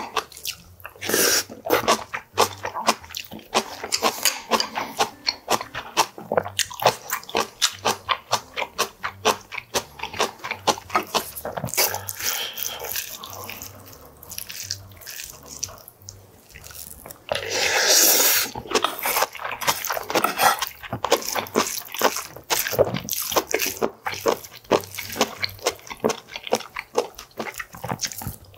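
Close-miked eating: rapid, wet chewing and lip-smacking clicks as a man eats bibimbap and kimchi, with a louder, longer noisy burst about eighteen seconds in.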